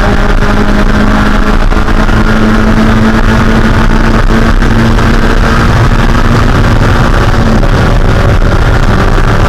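In-car sound of a Mazda Spec Miata's 1.6-litre four-cylinder engine running loud and steady at high rpm under heavy wind and road noise. Its note holds a steady pitch for several seconds, then shifts slightly near the end.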